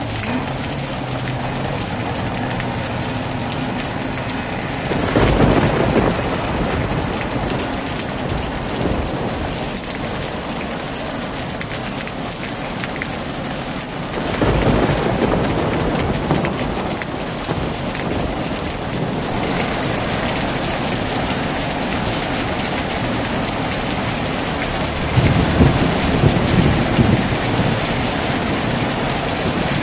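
Heavy rain falling steadily, with three rolls of thunder: about five seconds in, near the middle, and a longer one near the end.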